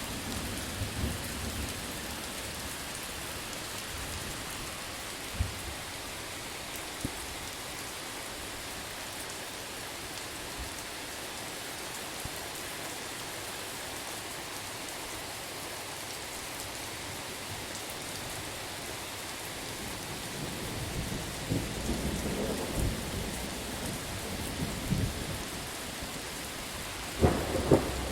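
Steady rain hissing, with low rolls of thunder near the start and again about three-quarters of the way through. A louder crack of thunder comes near the end.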